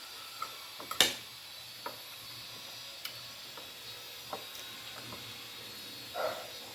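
Light clicks and taps of eating utensils against a plate during a meal, a few scattered strokes with the sharpest about a second in, over a low steady hum.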